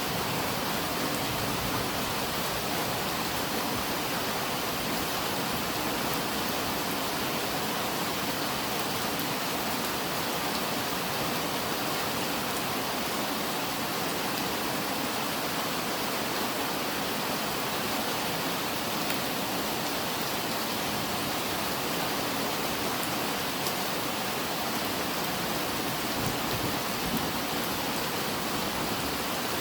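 Steady heavy rain falling, an even dense hiss with faint scattered drop ticks.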